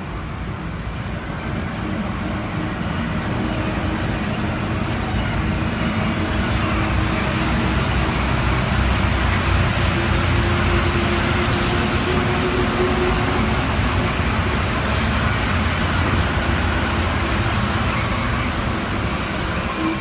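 Rubber-tyred Santiago Metro train running through a station: the rumble and hiss grow over the first several seconds and then hold steady. A faint motor whine rises slightly in pitch in the middle.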